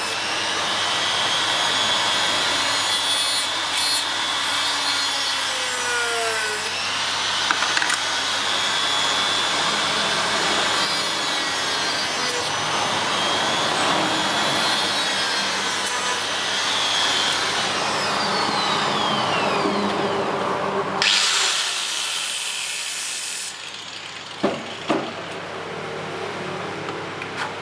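A tool cutting or working bamboo, a steady noise whose pitch sweeps up and down. It cuts off about 23 seconds in, and two short knocks follow.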